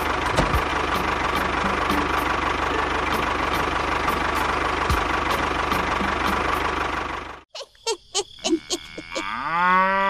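Tractor engine running steadily, cutting off suddenly about three-quarters of the way in. After a few clicks, a cow moos in one long call near the end.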